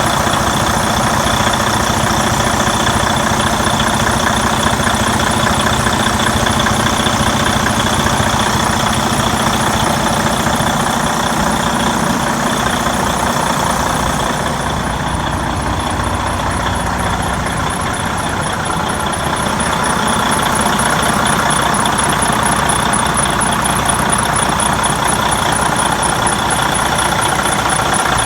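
Detroit DD15 14.8-litre diesel engine of a 2010 Freightliner Cascadia semi tractor idling steadily, dipping slightly in level about halfway through.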